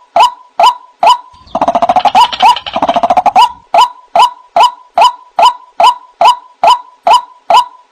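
White-breasted waterhen (ruak-ruak) calling: a steady series of short, upward-inflected "wak" notes at about two a second. About a second and a half in, the notes give way to a rapid grating chatter lasting about two seconds, then the steady notes resume.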